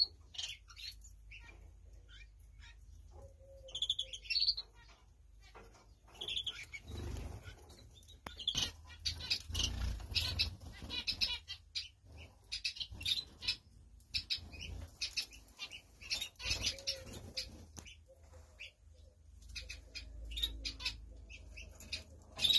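Small caged finches chirping in short high calls and fluttering their wings in the cage.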